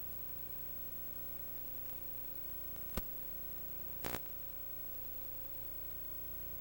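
Slide projector running with a steady fan and motor hum. It gives one sharp click about three seconds in, then a short clatter a second later as a slide is changed.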